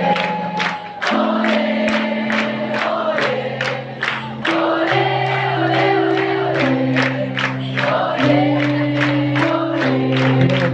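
Worship music: a band plays held keyboard chords over a steady drum beat of about three strokes a second, with a crowd of voices singing along.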